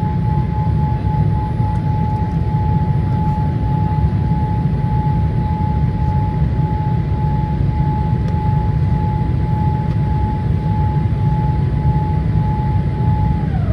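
Boeing 787-8 cabin noise on descent: a steady low rumble of airflow and engines, with a steady high whine from the aircraft's systems held above it.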